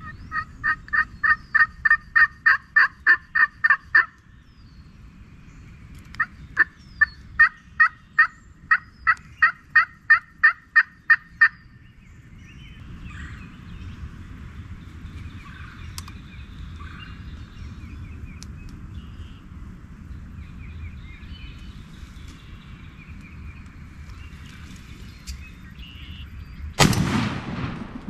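Two long runs of turkey yelps, evenly spaced notes about three to four a second, each run lasting several seconds with a short pause between. A single sudden loud bang comes near the end.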